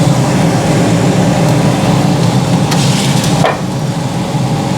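Air fryer fans running with a steady low hum, with a brief clatter about three seconds in as the fish is handled.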